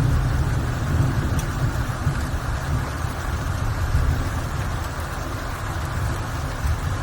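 Rain falling, under a deep low rumble that slowly fades.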